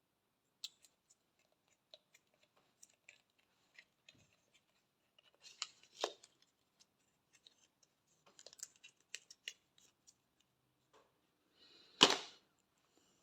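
A gift's packaging being handled and opened: scattered small clicks and crackles, with a louder crackling burst near the end.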